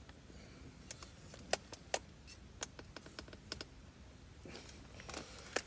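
Scattered light clicks and taps of kitchen utensils on dishes and a board during food preparation, irregular and unevenly spaced, with a few sharper knocks.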